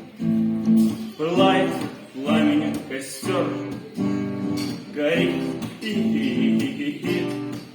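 Acoustic guitar strummed in a steady rhythm, chords repeating about once a second.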